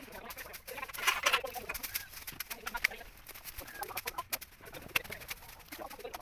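Domestic fowl clucking and calling in short notes, with frequent sharp clicks or taps among them.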